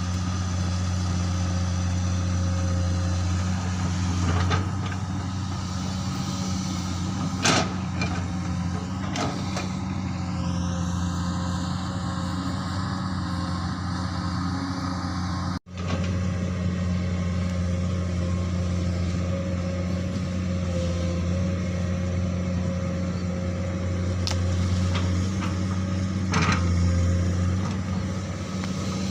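Komatsu PC200 excavator's diesel engine running steadily under work, with a few sharp knocks spread through, with a brief cut in the sound about halfway.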